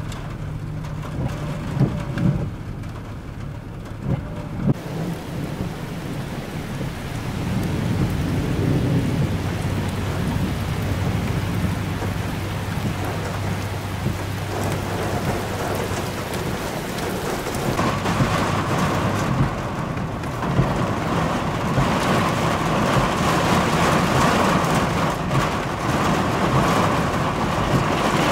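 Torrential rain pouring down on flooded pavement, with thunder rumbling. The downpour grows heavier after several seconds.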